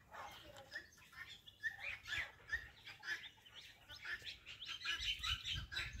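Birds chirping in short, repeated calls that grow busier toward the end, with a low rumble coming in near the end.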